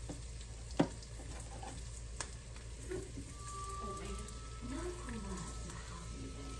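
Food frying in hot grease in a pan, a steady low sizzle. A sharp click about a second in and a lighter one a little after two seconds.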